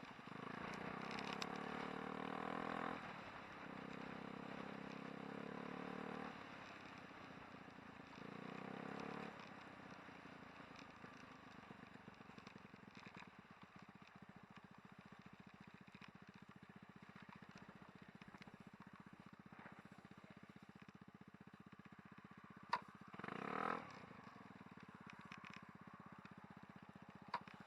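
Small engine running in three short stretches of a few seconds each, then faint background with a short clatter about 23 seconds in.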